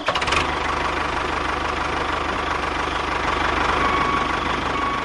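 Small motor of a DIY mini bulldozer running steadily, with a fast even pulse. It starts abruptly and runs at a constant speed.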